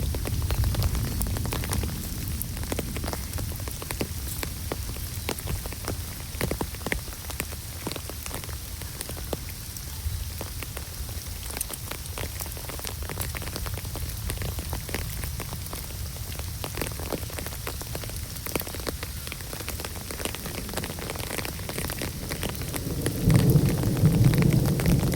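Rain falling steadily, with many separate drops ticking on nearby surfaces over a low rumble; the rumble grows louder near the end.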